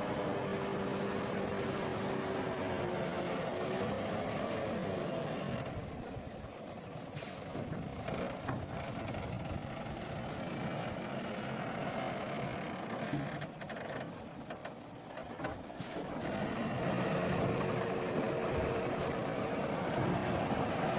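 Heavy diesel earthmoving machinery running with a steady engine note. It drops quieter for several seconds in the middle and grows louder again, with a few brief sharp clicks.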